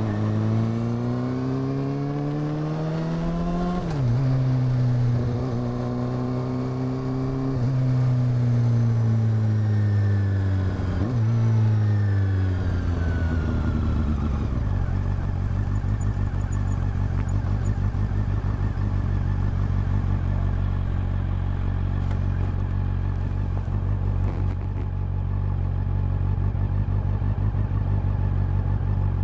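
Honda CB400 Super Four's inline-four engine and exhaust accelerating with a rising pitch, shifting up about 4 s in, then easing off and slowing down with a quick throttle blip on a downshift. For the second half it idles steadily with a low rumble, the bike at a standstill.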